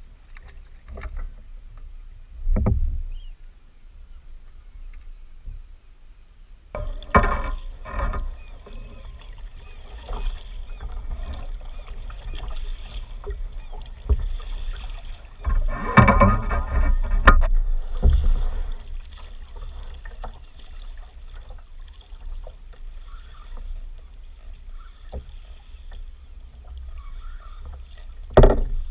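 Water sloshing and splashing against a fishing kayak, over a steady low rumble of wind on the microphone, with irregular louder splashes and knocks. The loudest come about a quarter of the way in and again just past the middle.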